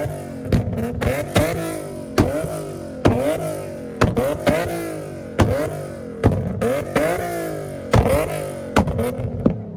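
Car engine being revved in quick repeated blips, each one opening with a sharp crack and then rising and falling in pitch, about one to two a second.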